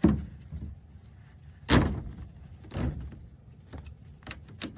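Metal clunks and clicks from a Suzuki Samurai's seat adjuster mechanism being worked through its notches after lubing. Three heavier knocks come in the first three seconds, then lighter clicks near the end.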